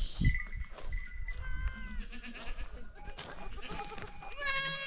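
Goats bleating, several separate calls, the loudest one near the end.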